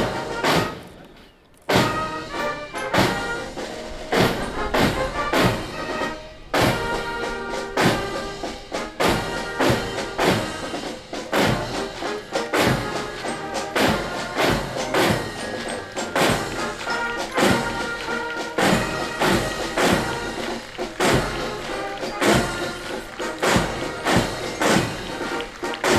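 March music with brass and a steady bass-drum beat, about two beats a second. The music drops away briefly about a second in, then comes back in on a hard beat.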